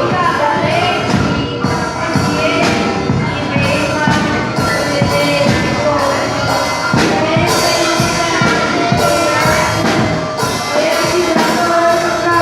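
A children's church band playing a song in rehearsal, with a steady drum beat under pitched instruments.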